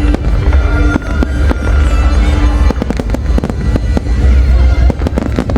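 Large fireworks display: a dense, continuous run of bangs and crackles from exploding shells over a constant low rumble, with clusters of rapid bangs about three seconds in and again near the end. Music plays underneath.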